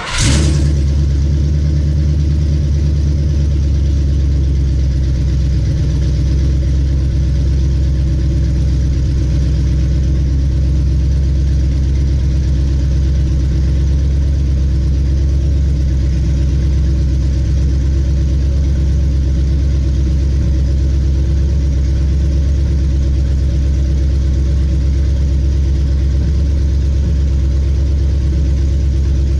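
Mopar 408 stroker V8 running at a steady idle. It cuts in abruptly at the start, on one of its first runs after being built, while the ignition timing is being sorted out.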